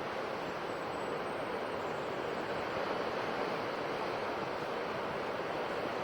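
Ocean surf washing on a shore: a steady rushing wash of waves that swells slightly a few seconds in.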